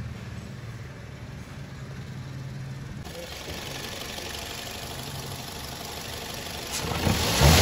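A car engine hums steadily and low. About seven seconds in, the Toyota Corolla's VVT-i four-cylinder engine gets suddenly loud and revs up, at the end of an oil change.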